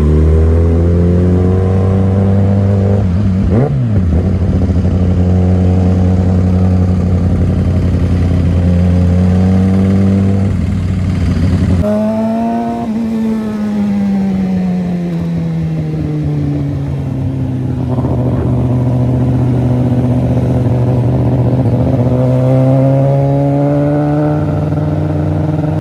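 Kawasaki ZX-10R superbike's inline-four engine running on the move: its note holds steady for several seconds, then drops in pitch and climbs again near the end as the revs change.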